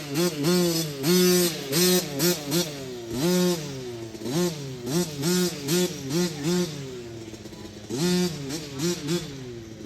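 Small dirt bike engine revved in quick repeated throttle blips, each rising and falling back, about two a second, with a brief lull a little after halfway before the blips start again.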